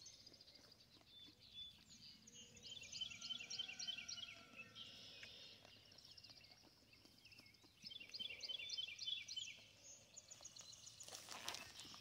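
Faint birdsong: a small songbird singing quick, repeated high chirping phrases, once about two seconds in and again about eight seconds in, over quiet outdoor background.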